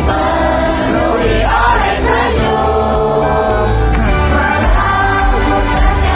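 Live idol-pop performance: a group of young women singing together over a loud pop backing track with a heavy bass.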